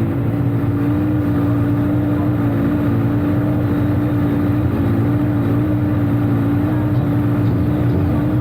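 An engine running at a steady, held speed: a loud, constant hum with no revving up or down.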